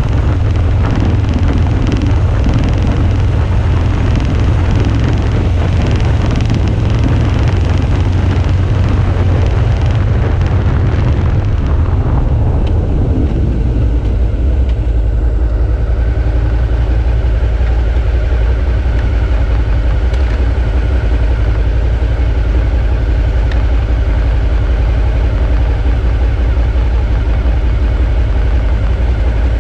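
Suzuki V-Strom 650's 645 cc V-twin engine running under way with a rush of wind and road noise. About halfway through the noise falls away and the engine settles to a steady idle as the bike comes to a stop.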